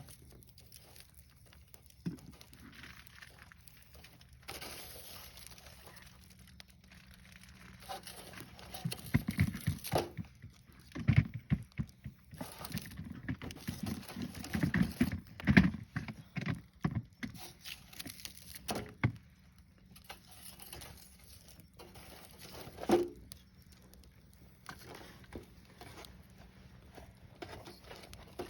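Wood fire crackling, with irregular sharp snaps and pops that come thick and loud for a stretch in the middle and one sharp pop later on.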